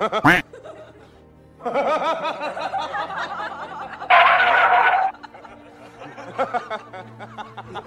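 Laughter and snickering over background music, with a short sharp sound at the very start and the loudest laughing about halfway through.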